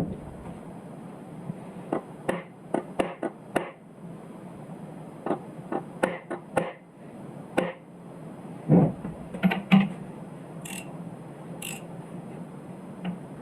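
Hammer tapping steel number punches to stamp matching cylinder numbers onto a connecting rod and its cap, heard as clusters of sharp taps with short pauses between them.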